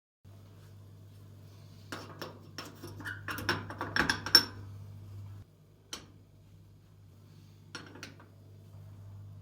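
Dishes and cutlery clattering and clinking as they are handled, a quick run of clinks building to a loud clack about four seconds in, then a single knock and a pair of knocks near the end, over a steady low hum.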